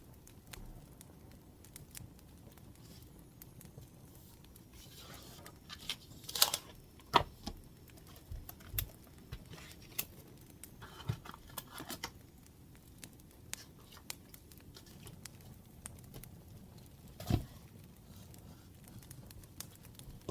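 Faint, scattered crackling and popping of a wood fire, with louder paper rustling and tearing-like sounds a few times and a couple of sharp knocks, about 7 and 17 seconds in.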